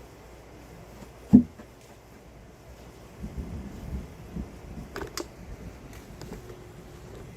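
Thunder rumbling low and unevenly from a thunderstorm, building up after a few seconds. A single sharp thump comes about a second in, and a few faint clicks follow later.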